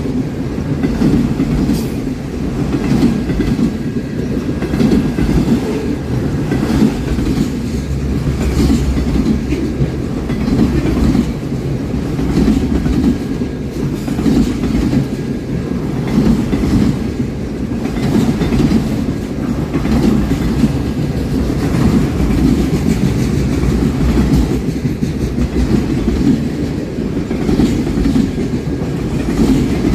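A train's cars rolling past steadily, a continuous heavy rumble with wheels clacking over the rail joints.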